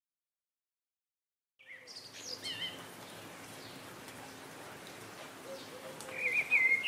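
Silence for about a second and a half, then outdoor ambience: a steady background hiss with birds calling, a few chirps about two seconds in and a louder warbling call near the end.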